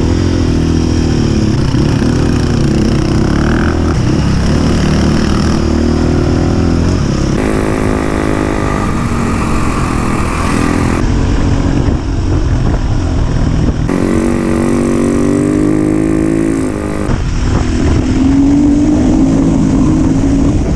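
Dirt bike engines running and revving as the bikes are ridden, heard in several short clips cut together. The engine pitch shifts between clips and climbs near the end.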